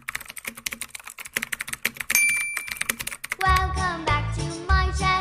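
Rapid keyboard-typing clicks, with a short bright ding about two seconds in. About three and a half seconds in, cheerful children's music with a heavy bass beat starts.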